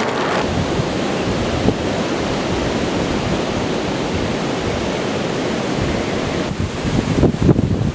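Heavy surf breaking on the shore under strong wind, a steady loud rush. From about a second before the end, wind gusts buffet the microphone in uneven low thumps.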